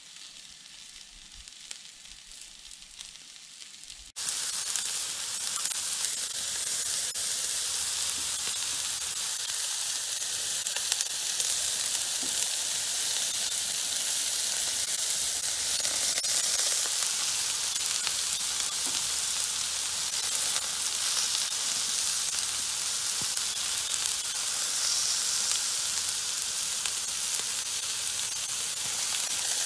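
Sliced bell peppers and onion sizzling in oil on a Blackstone flat-top griddle: a steady frying hiss that jumps much louder about four seconds in and then holds even.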